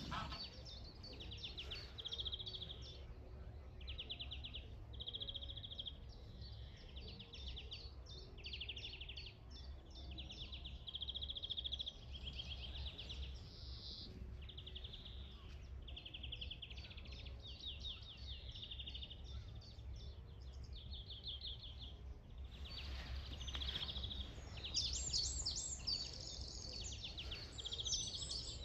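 Birds singing: short, rapid trills repeated every second or two, with higher chirping phrases joining near the end, over a low steady rumble.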